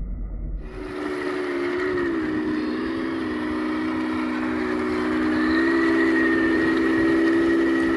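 Heng Long Leopard 2A6 RC tank running through water: a steady whine from its electric drive motors and plastic gearboxes, with a thin higher tone, the pitch wavering slightly. It starts after a cut about a second in and gets a little louder about five seconds in.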